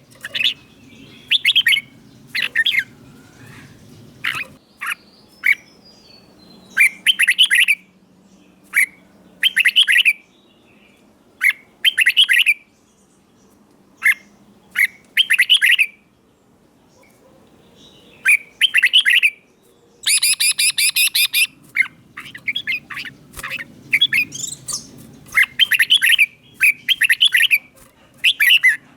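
Red-whiskered bulbul singing: short, bright, whistled phrases repeated every second or two with brief pauses, and a quick run of rapid notes about twenty seconds in.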